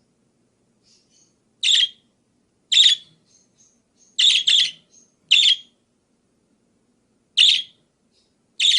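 Budgerigar (parakeet) calling: short, sharp, loud chirps at irregular intervals, about seven of them, two in quick succession near the middle, with faint soft chirps in between.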